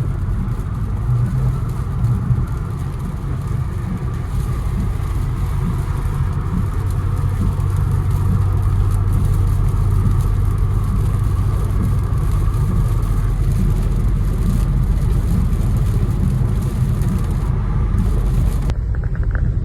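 Infiniti Q60 cruising on a wet highway, heard from inside the cabin: a steady low drone of engine, exhaust and tyre noise. The sound changes abruptly about a second before the end.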